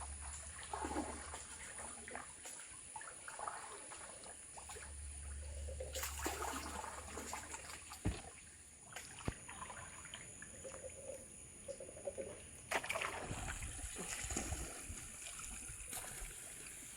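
Faint water trickling and splashing around a small boat, with an occasional knock.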